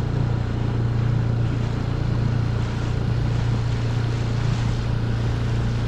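Dinghy outboard motor running at a steady speed, a constant low drone with rushing wind and water over it.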